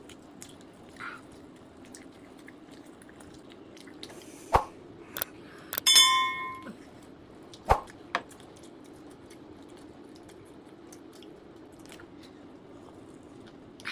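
Eating sounds from biting and chewing roasted chicken by hand: a few sharp mouth smacks and clicks over a low steady hum. About six seconds in, a short bright ringing chime sounds: a subscribe-button sound effect.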